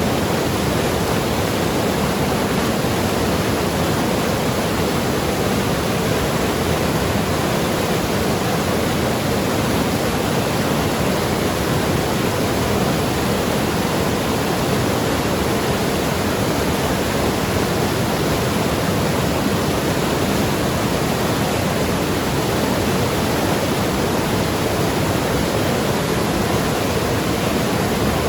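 Mountain river rushing and tumbling over rocks: a steady, even rush of water with no pauses.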